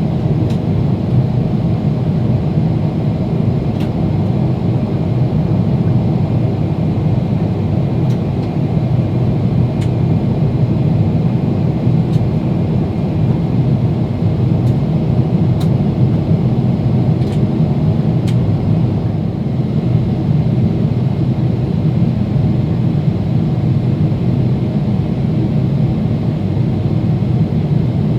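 Steady low rumble of airflow and jet engines heard inside the cabin of a Boeing 777-300ER on final approach for landing, with a few faint ticks scattered through it.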